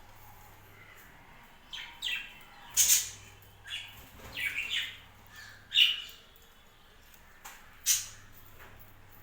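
Budgerigars giving short, scratchy squawks and chirps, a cluster of calls in the first half and a couple more after a quiet spell.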